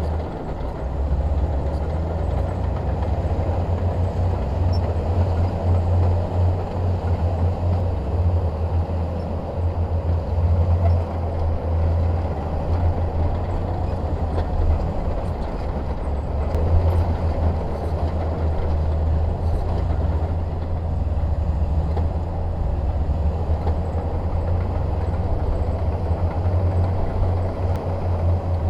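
Shantui DH17 bulldozer's diesel engine running steadily, a loud, low drone with no breaks.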